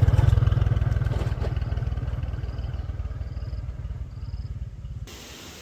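An engine running with an even, low, pulsing beat, loud at first and slowly fading, then cut off about five seconds in.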